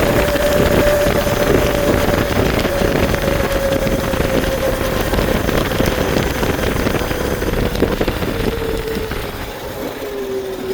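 Motorbike engine running at a steady speed while riding, its tone easing slowly lower in pitch, with wind rushing over the microphone.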